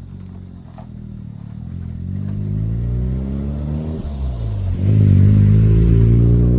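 Mazda RX-7 FC3S's twin-rotor rotary engine heard through a FEED Sonic-R exhaust, accelerating with its pitch climbing. About four seconds in, the pitch drops briefly, then climbs again, louder.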